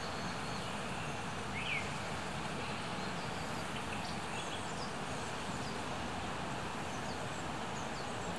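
Small birds chirping now and then, short high calls over a steady rushing background noise.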